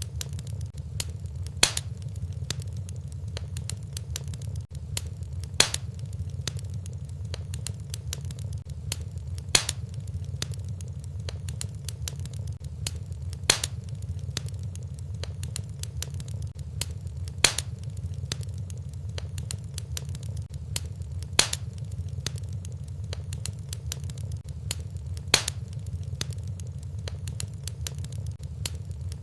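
Wood fire burning in a fireplace: a steady low rumble with constant small crackles, and a louder sharp pop about every four seconds.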